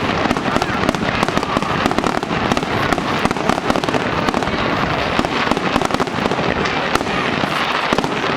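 Fireworks display in a rapid barrage: dense, continuous bangs and crackling with no pause.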